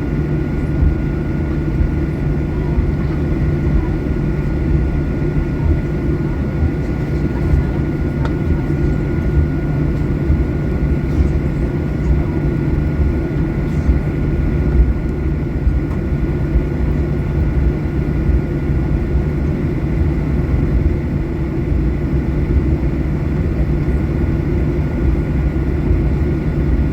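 Steady cabin noise inside a Boeing 737-800 on the ground: a low rumble and rush of air, with two faint steady high whines.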